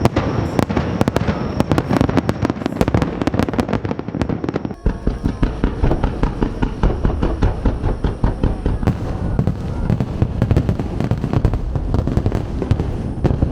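Fireworks bursting in rapid succession, a dense stream of sharp bangs and crackles with hardly a gap.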